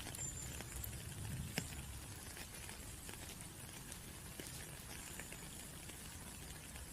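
Steady rain with scattered drops pattering and ticking, one sharper drop hit about a second and a half in.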